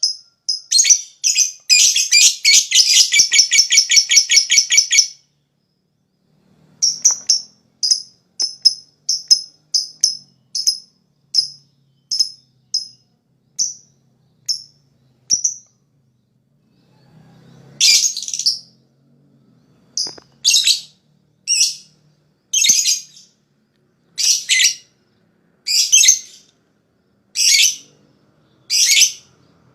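Lovebird calling. A few sharp chirps, then a long rapid chattering trill (ngekek) for about four seconds. After a pause comes a run of sharp chirps that slows down, and later harsher, louder calls about once a second.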